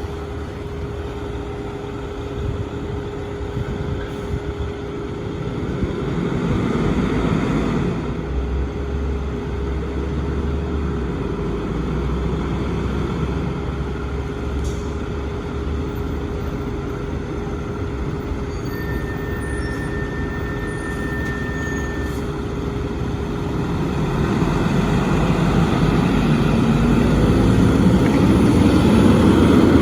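Steady traffic and heavy engine rumble that grows louder near the end as a fire engine approaches, its siren starting to wind up in the last few seconds.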